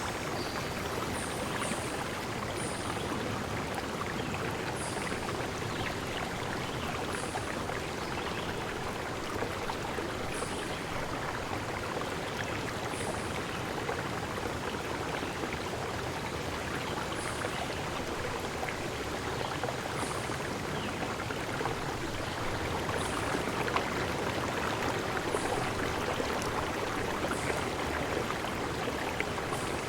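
A stream running steadily, its even rush of water spread across the range. Over it comes a short, thin, very high chirp every two to three seconds.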